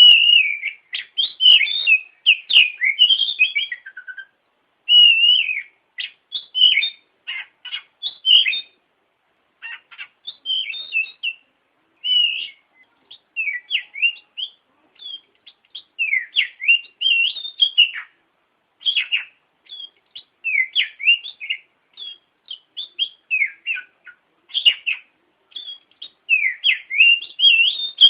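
Oriental magpie-robin (kacer) singing: quick runs of varied high whistled notes and chirps, in short phrases broken by brief pauses.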